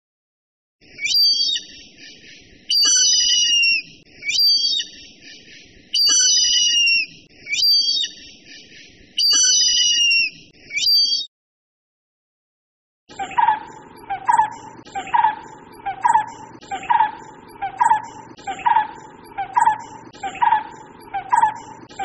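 Indian grey hornbill giving a series of high-pitched calls, long and short in turn. After a short pause, about thirteen seconds in, a brown-headed barbet starts its repeated call, a steady run of low notes a little over one a second.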